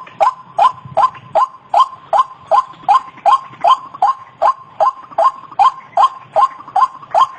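White-breasted waterhen (ruak-ruak) calling, one short loud note repeated evenly about two and a half times a second.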